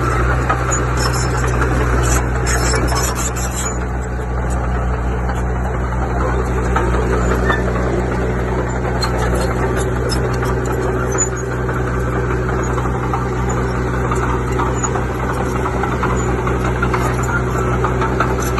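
Heavy earthmoving machine's diesel engine running steadily at a constant pitch.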